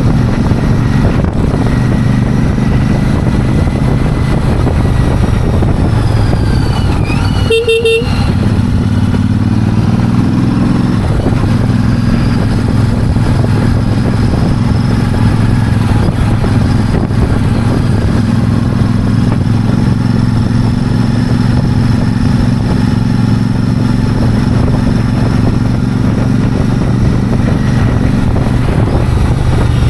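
Royal Enfield Super Meteor 650's parallel-twin engine running steadily through its exhaust, with a short horn toot about seven and a half seconds in.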